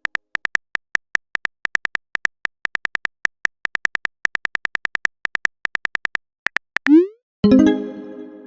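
Rapid clicking of a phone-keyboard typing sound effect, about six or seven clicks a second. Near the end a short rising swoop, then a chiming message-notification tone that fades away.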